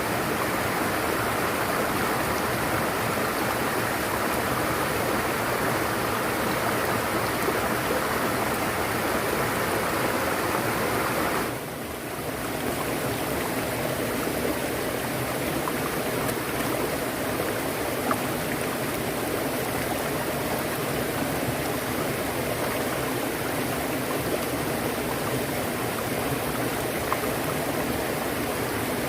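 Running water, as from a stream, rushing steadily, with a brief drop in level about twelve seconds in.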